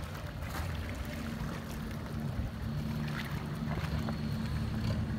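Boat engine running steadily with a low drone, with faint clicks and knocks over it.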